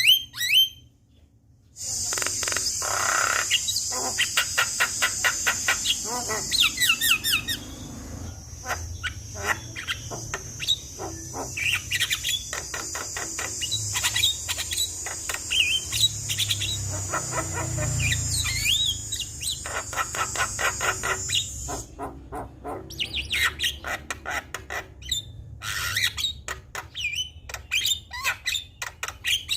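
Javan myna singing a fast, varied song of rapid clicks, chattering and whistled glides full of mimicked calls. A steady, high-pitched insect-like buzz runs under it for most of the time and stops about two-thirds of the way through.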